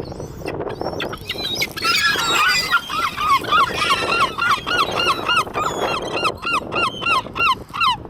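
A flock of gulls squabbling over thrown chips, calling noisily over one another. One gull then gives a long run of evenly repeated calls, each rising and falling in pitch, about three a second.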